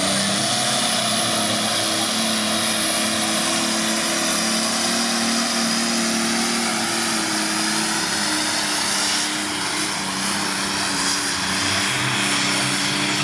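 Diesel engine of a pulling tractor or truck running at high revs under load during a pull, with a high steady whistle over it. The engine's pitch eases slightly lower toward the end.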